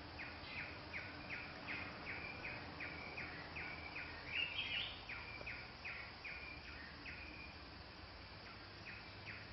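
Crimson-winged woodpecker calling: a long, even series of short notes, about two and a half a second, with a brief louder, higher burst about four and a half seconds in. The series breaks off about seven seconds in and starts again near the end.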